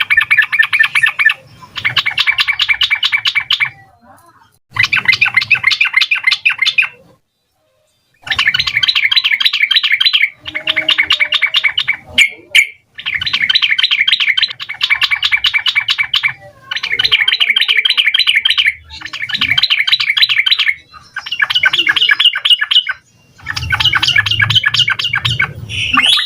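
Yellow-vented bulbul (trucukan) singing in repeated rapid, bubbly phrases of about two to three seconds each. The phrases come one after another with brief pauses between them.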